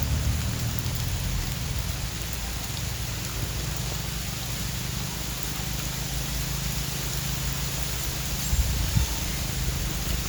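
Rain falling steadily, with a low rumble beneath it and a few louder thumps about nine seconds in.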